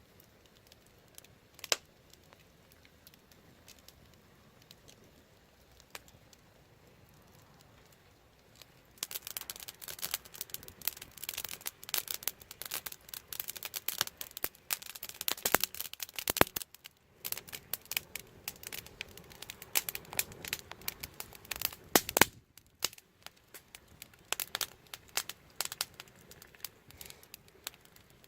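Wood fire crackling. For the first nine seconds or so there are only a few scattered pops, then a dense, irregular run of sharp crackles and snaps.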